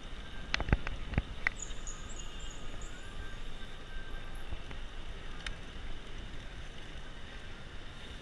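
Wind and road noise on a camera carried on a moving bicycle, with a few sharp clicks or rattles between about half a second and a second and a half in.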